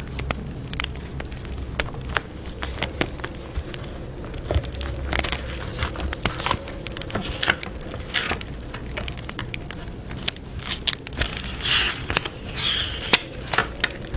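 Wood fire crackling, with many irregular sharp pops and a few brief hissing swells.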